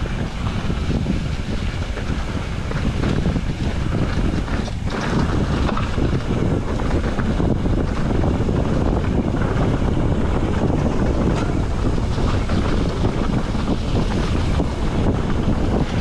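Wind buffeting the microphone of a riding mountain biker's camera: a steady, rumbling rush with many small clicks and rattles from the bike and trail mixed in.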